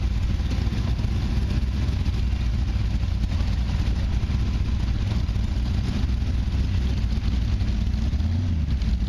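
A big V8 motorcycle engine running steadily with a deep rumble, with a slight change in tone near the end.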